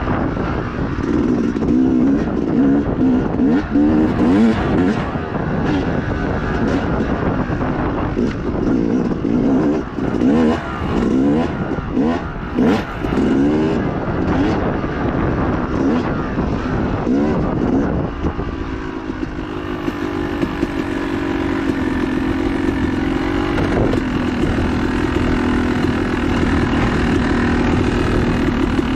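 Dirt bike engine being ridden hard off-road, revving up and down with quick throttle changes and shifts. About two-thirds of the way through it settles into a steadier, slowly climbing note.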